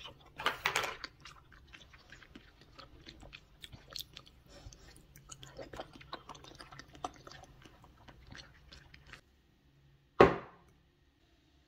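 Close-up chewing and eating of a soft jelly snack from a small plastic cup: a loud burst of mouth sounds just after the start, then many small clicks of chewing that stop about nine seconds in. Near the end comes one short, loud knock, a ceramic mug set down on a wooden table.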